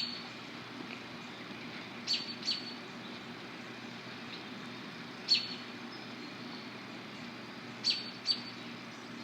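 A bird giving short, sharp, high chirps, some single and some in quick pairs, every two to three seconds, over the steady hiss of falling rain.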